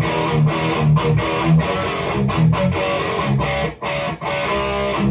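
Distorted electric guitar through a REVV G3 distortion pedal on its lower-gain setting, playing a fast, tight, palm-muted chugging riff with a snappy attack. The riff stops briefly twice near the end.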